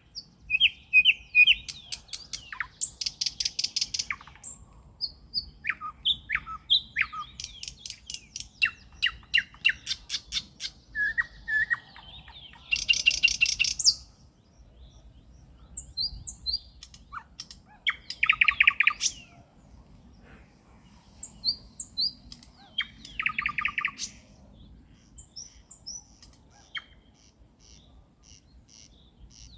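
Nightingale singing in separate phrases of rapid clicking trills and loud whistled notes, with short pauses between the phrases.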